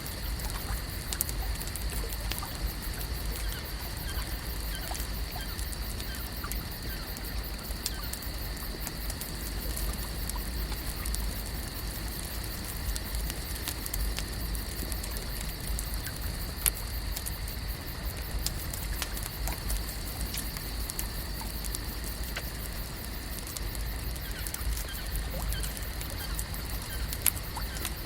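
Lakeside night ambience: a steady high-pitched hum under a low rumble, with light clicks and ticks scattered throughout.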